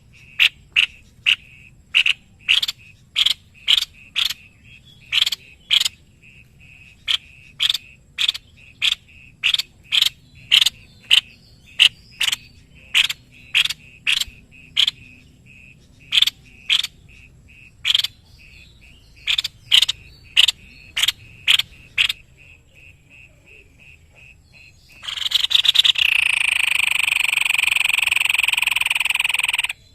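Tepus leher putih (white-bibbed babbler) giving a long series of short, sharp call notes, roughly two a second. A loud continuous buzzing trill comes in near the end for about five seconds and stops abruptly.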